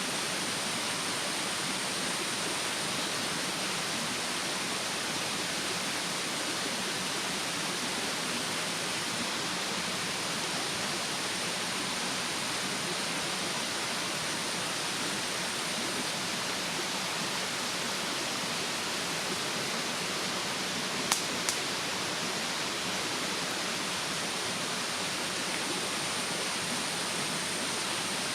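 Steady rushing of a mountain stream, with a wood campfire giving two sharp pops about half a second apart, a little over two-thirds of the way in.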